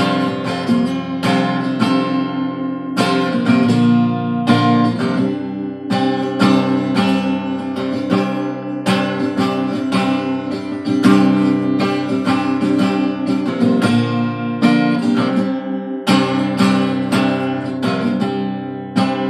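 Acoustic guitar strummed in an instrumental break between sung verses, a steady run of strums with ringing chords.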